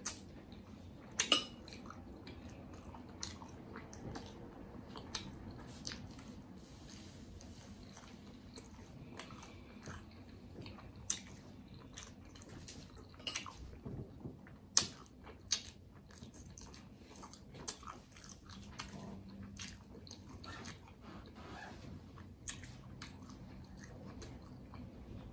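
Close-miked chewing and wet mouth sounds of someone eating pieces of a pretzel burger bun dipped in cheese sauce, with scattered sharp clicks, the loudest about a second in and about fifteen seconds in.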